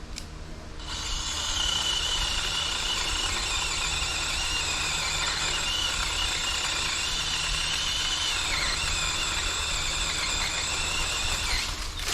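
DeWalt 20V brushless battery pole saw running, a high-pitched electric motor whine that starts about a second in and cuts off near the end. Its pitch sags briefly twice, as the chain bites into wood.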